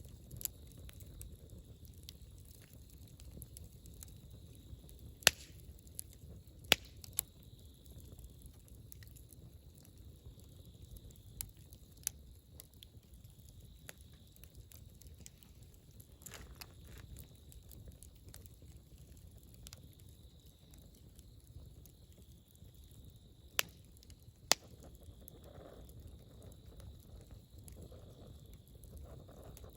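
Wood campfire crackling: a low steady rustle of flames with scattered sharp pops, a few of them much louder than the rest.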